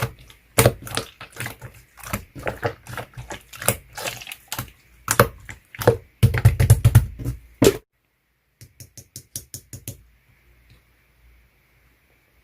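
Clear slime being squeezed and pressed by hand, giving a dense run of wet clicks and crackling pops. About eight seconds in the sound cuts out abruptly, followed by a short, even run of quick clicks and then a faint hum.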